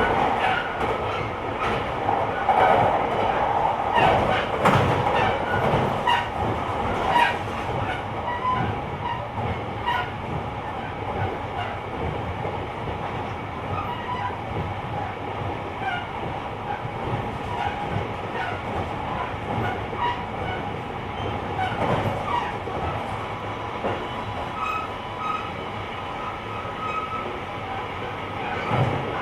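JR Kyushu 885 series electric train with Hitachi traction equipment running at speed, heard from inside the vestibule deck of a motor car: steady motor and inverter whine over rumbling wheel noise, with wheels clicking over rail joints, most often in the first few seconds.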